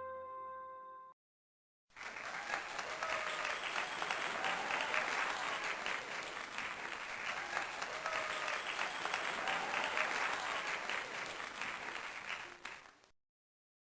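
A tune ends about a second in. After a short gap, a crowd applauds steadily for about eleven seconds and fades out near the end.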